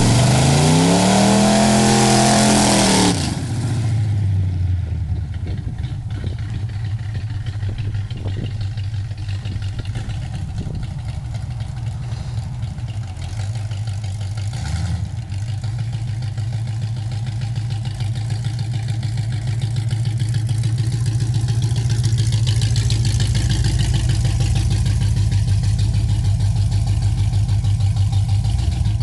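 Chevrolet engine in a 1977 Buick LeSabre revved up and down several times, then settling into a steady, pulsing idle. Over the last several seconds it grows louder and rougher.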